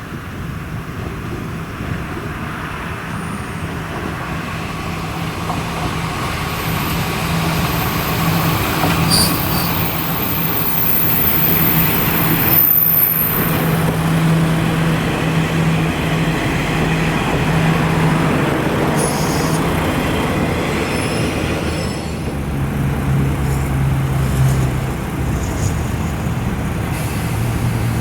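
KiHa 147 diesel railcars running at a standstill with a steady low engine hum. About 22 s in, a bus engine takes over at a lower pitch as the BRT bus pulls away.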